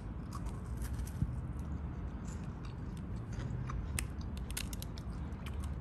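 Close-up crunching and chewing of a Ferrero Rocher, its crisp wafer shell and chopped-hazelnut coating cracking in many small, irregular crunches.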